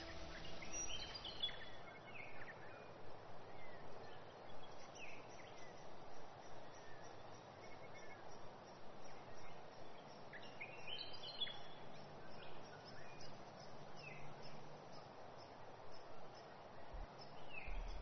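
Forest ambience: birds giving short, scattered chirps in small clusters over a soft steady hiss.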